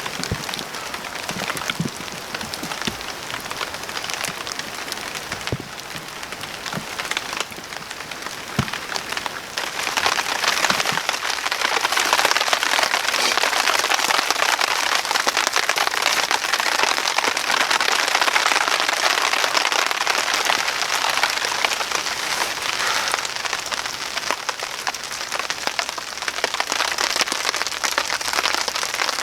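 Rain falling steadily, with scattered sharp drops and knocks in the first several seconds; about ten seconds in it becomes louder and denser.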